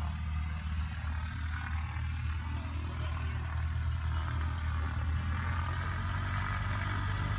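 An engine running steadily at low speed, a deep hum with a fast, even pulse, with a faint higher hiss growing a little near the end.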